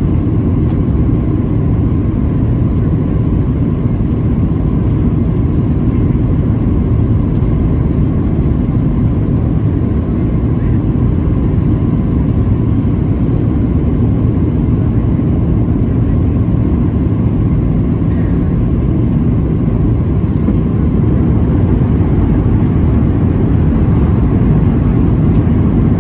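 Steady low rumble in the cabin of a Boeing 737-700 on the ground after landing: its CFM56 jet engines and wheels rolling, with a faint steady whine, growing slightly louder near the end.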